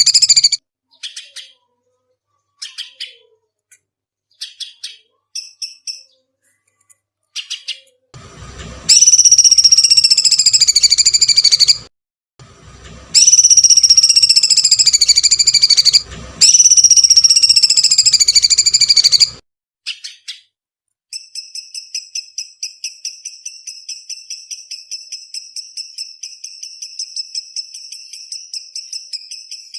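Songbird calls: a few short high chirps, then three loud high calls of about three seconds each, each falling slightly in pitch. From about two-thirds of the way in comes a fast, even trill of repeated high notes, about eight a second.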